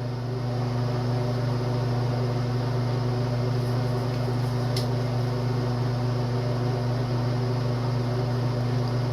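A steady low hum, unchanged throughout, with one faint click about five seconds in.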